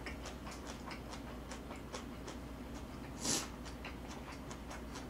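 Close-miked chewing: faint, irregular wet mouth clicks, with one short breath about three seconds in.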